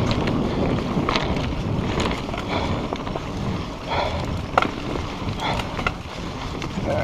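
Mountain bike riding fast down a dirt trail: wind buffeting the microphone and tyres rolling over the ground, with scattered knocks and rattles from the bike.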